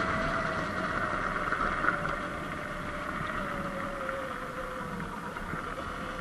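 Surron Light Bee electric dirt bike riding on a dirt road: a thin motor whine falls slowly in pitch as the bike slows, over steady wind and tyre noise.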